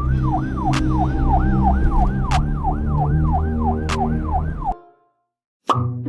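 Electronic police-car siren in a fast yelp, sweeping down and up about three times a second, with three sharp clicks evenly spaced through it. It cuts off suddenly about five seconds in.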